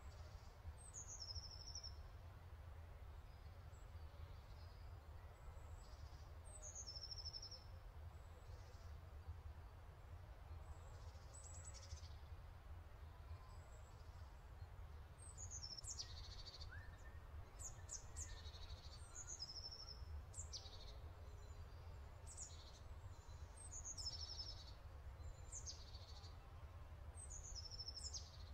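Faint birdsong: a small bird repeating short, high, falling chirping phrases, coming more often in the second half, over a low steady hum.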